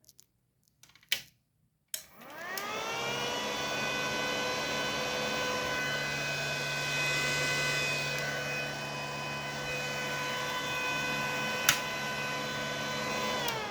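Rhino 450W inverter welding machine switched on: after a couple of clicks, its cooling fan spins up with a rising whine and runs steadily, a sign the repaired machine now powers up. There is a sharp click near the end, and the fan starts to wind down as power is cut.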